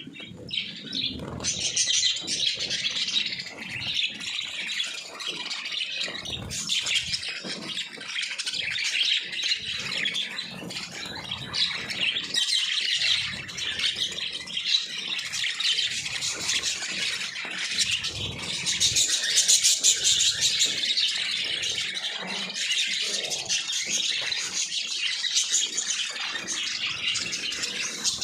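A group of caged pet birds chirping and chattering continuously, many calls overlapping.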